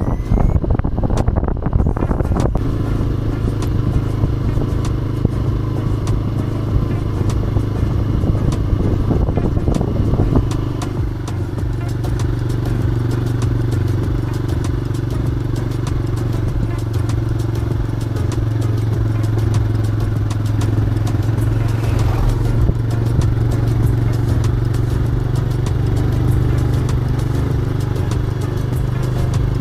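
TVS Raider 125's single-cylinder four-stroke engine running steadily under way, with clattering knocks and wind noise over it for the first ten seconds or so, then a smoother, even engine tone.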